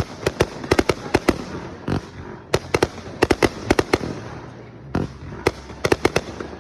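Fireworks display going off close by: sharp bangs in quick, irregular clusters, with a crackling haze between them.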